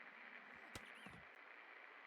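Best Electric Works Gold Medal 48-inch ceiling fan running faintly: a steady hiss with a small click and a soft knock repeating about every two seconds.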